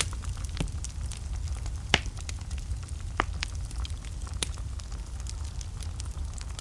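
Wood fire burning in a fireplace: a steady low rumble of flame with scattered sharp crackles and pops, the loudest about two seconds in.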